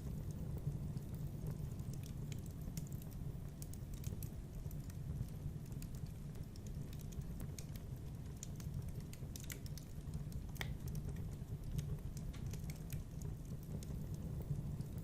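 Wood fire in a fireplace crackling: irregular small pops and snaps over a steady low rumble.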